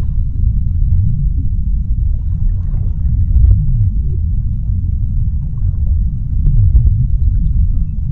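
Underwater sea ambience: a deep, steady rumble with faint scattered clicks and a few low sliding tones.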